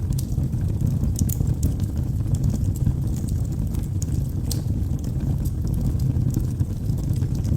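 Wood logs burning in a fireplace: a steady low rush of flame with irregular sharp crackles and pops, several each second.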